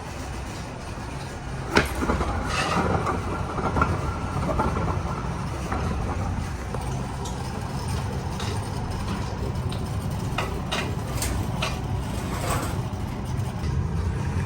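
A steady mechanical rumble with scattered sharp metallic clicks and clanks from work on the air handler.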